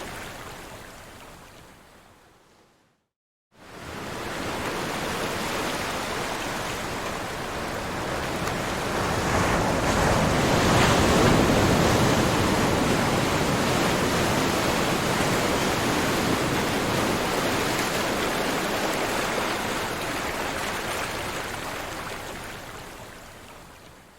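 Ocean surf: a steady rush of waves washing in, with a brief silent gap about three seconds in, then swelling to its loudest around ten seconds and slowly fading away near the end.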